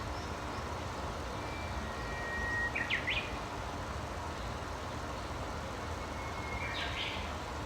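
A songbird singing twice: each phrase is a thin, steady whistle of about a second that breaks into a quick flurry of up-and-down notes, about three seconds in and again near the end. Under it runs a steady low rumble and hiss.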